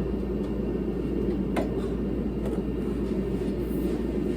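A heater running with a steady low noise, and a single sharp click about a second and a half in.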